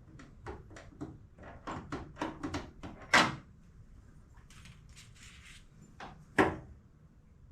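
Metal suspension parts being handled and fitted together by hand: a quick run of light knocks and clinks, then two louder clanks about three seconds apart, with a short hiss between them.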